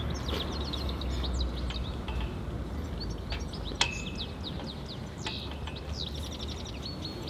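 Small birds chirping and twittering in quick, repeated high calls. A low rumble runs underneath for the first two seconds, and there is a single sharp click just before the middle.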